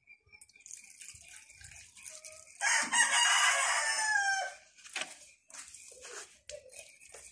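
A rooster crowing once, a call of about two seconds that falls in pitch at its end.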